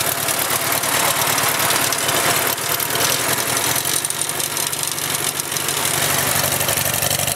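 A Farmall Cub tractor's small four-cylinder flathead engine runs steadily after a cold start with no choke in 38-degree weather, with a slight change in its note about three seconds in.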